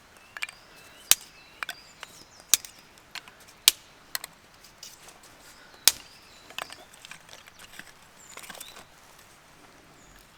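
Wood being chopped: a series of sharp, irregular strokes, roughly one every half second to second.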